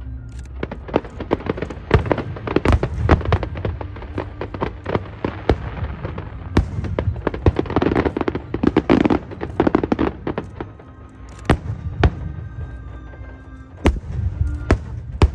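An aerial fireworks display: many shells bursting in quick succession, with dense crackling and popping thickest in the middle, then a few separate sharp bangs near the end over a low rumble.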